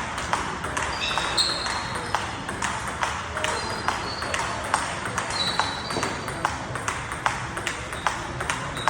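Table tennis ball being hit and bouncing on the table, a quick irregular run of sharp clicks, a few a second, with short high squeaks over a steady murmur of voices.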